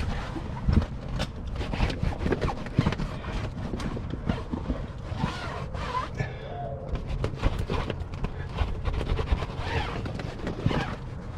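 A dry cloth rubbing over a boat's clear vinyl isinglass window, with irregular knocks and handling clatter and a few short squeaks.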